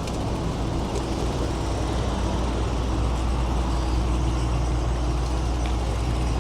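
Road traffic: a steady low rumble of vehicle engines on a city street.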